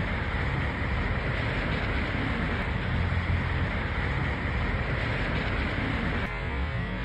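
Storm wind and rain: a steady noisy rush with a low rumble, changing abruptly about six seconds in.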